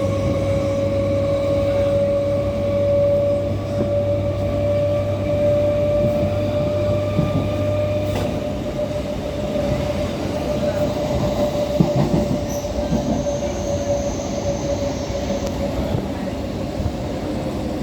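MMTS suburban electric train running along the track, a steady rumble under a sustained high tone. A low hum underneath cuts out about eight seconds in.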